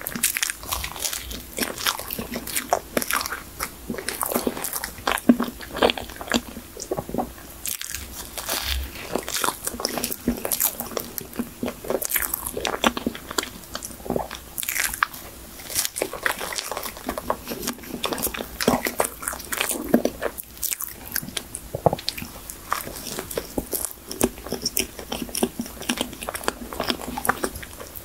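Close-miked eating of a folding cake: bites and chewing, a steady run of small mouth clicks and smacks.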